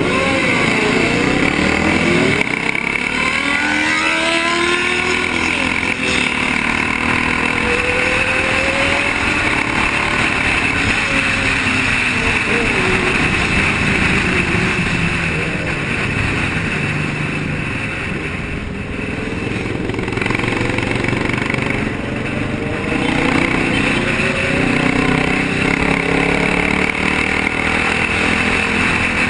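Several motorcycle engines running in traffic, their pitch rising and falling as they rev, over steady road noise.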